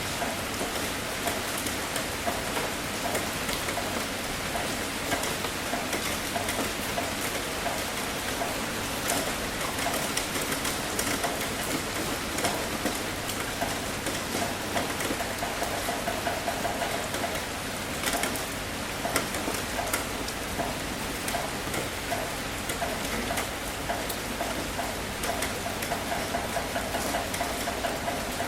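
Heavy rain falling on a tin roof: a dense, steady patter of many drops striking metal.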